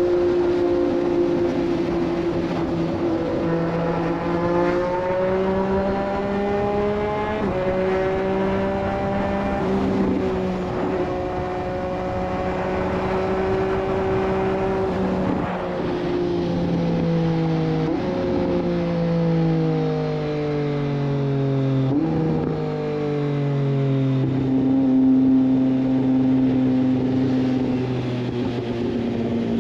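Triumph Street Triple 765 RS's inline-three engine through a Racefit Growler full exhaust system, heard from the bike while riding. The revs hold and rise gently for the first half, then fall away in steps through the second half, with sudden jumps in pitch at the gear changes.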